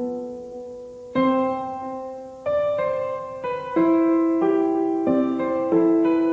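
Background music: a slow solo piano, single notes and chords struck every second or so and left to ring out.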